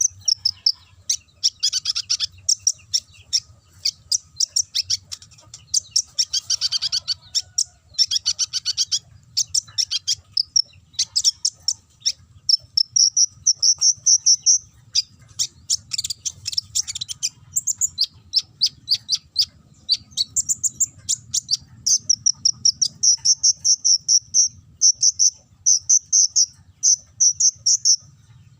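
Konin (kolibri ninja) singing a fast, high, canary-like song in long runs of sharp chirps and rattling trills, broken by short pauses. The trills come more evenly from about halfway through.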